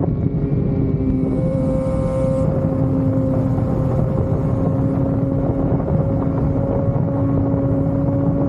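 Sport motorcycle engine running at a steady cruise, holding an even pitch, with wind rushing over the microphone.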